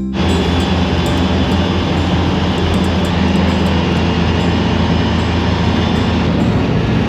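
Engine running at a steady speed, loud and even throughout.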